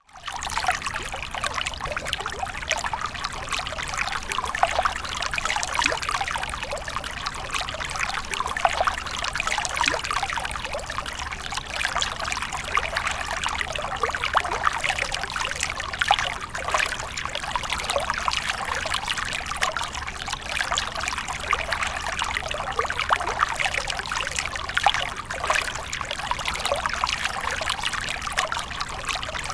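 Water splashing and trickling continuously, a steady wash with many small splashes.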